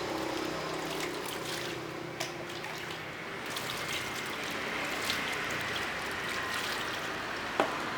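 Water trickling steadily, as in a small bath, with a few light knocks.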